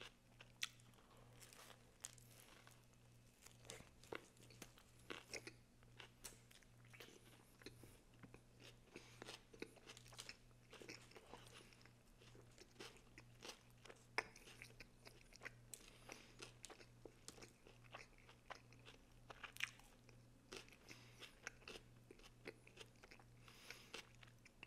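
Faint, close-miked chewing of a sandwich on Italian bread with fresh vegetables: a steady stream of short soft crunches and mouth clicks. A faint steady low hum sits underneath.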